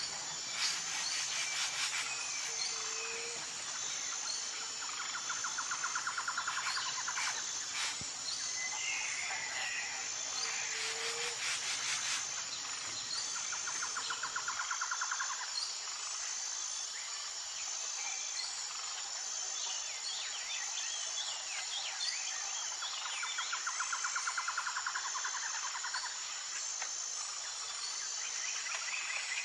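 Birds chirping and calling over a steady high-pitched insect chorus with an even pulse. A rapid pulsing trill comes three times, near the start, in the middle and near the end.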